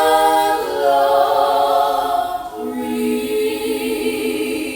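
Unaccompanied voices singing a worship song together, holding long notes that step down in pitch twice.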